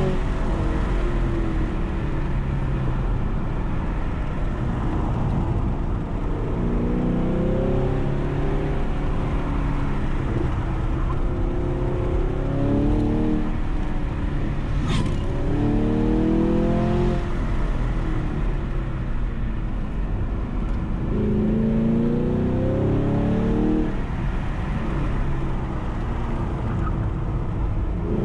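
Car engine pulling hard and rising in revs several times, easing off between pulls, over steady road and wind noise. A brief sharp click about halfway through.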